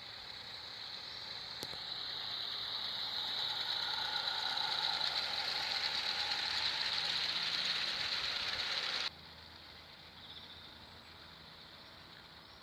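Roundhouse Lady Anne live-steam garden-railway locomotive running with its 21-truck train, a steady hissing rattle that grows louder as it approaches, then cuts off abruptly about nine seconds in.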